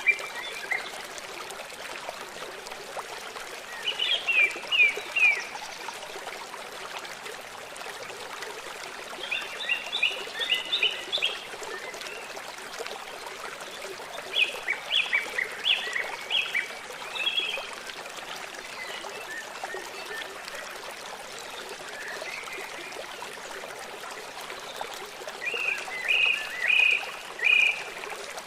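A songbird singing short phrases of several quick high notes, four times at intervals of several seconds, over the steady rush of flowing stream water.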